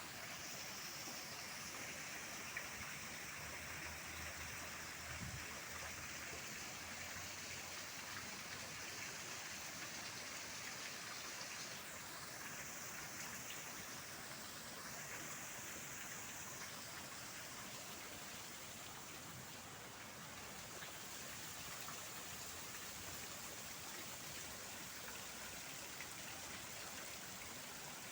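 Faint, steady rushing noise of outdoor water, like a stream or rain, with a thin high-pitched hiss that comes and goes a couple of times.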